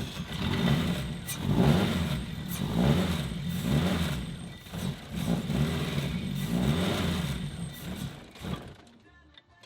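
Car engine running and being revved, rising and falling about once a second, then dying away near the end.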